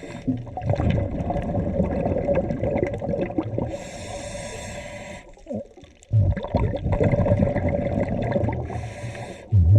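Scuba diver breathing underwater through a regulator: two hissing inhalations, about four seconds in and again near the end, with long rumbling, bubbling exhalations between them.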